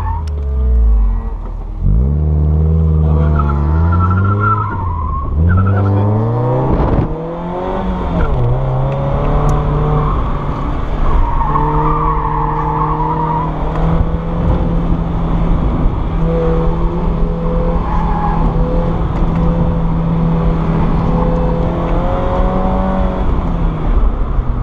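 Mazda Miata NA8's 1.8-litre four-cylinder engine revving up and falling back repeatedly through an autocross course, heard from the open-top cockpit, with the all-season Falken tyres squealing in the corners about four and twelve seconds in. The engine then holds a steady speed and drops in pitch near the end.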